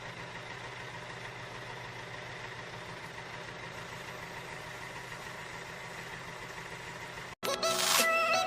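A small motor running steadily with an even hum, cutting off abruptly near the end.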